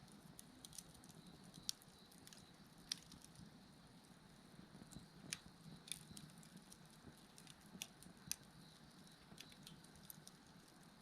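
Wood fire crackling faintly, with irregular sharp pops, the loudest about two, three and eight seconds in, over a faint steady insect trill.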